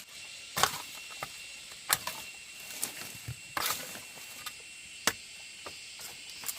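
A few irregular knocks and clatters, one sharp one about five seconds in, over a steady background hiss with a thin, high, steady tone.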